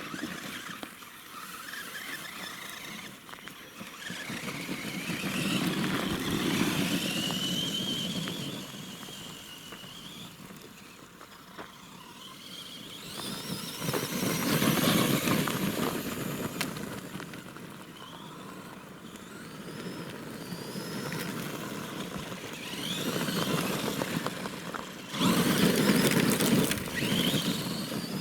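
Axial SMT10 radio-controlled monster truck driving, its electric motor whining up and down in pitch with the throttle. Louder surges come about six, fifteen and twenty-six seconds in.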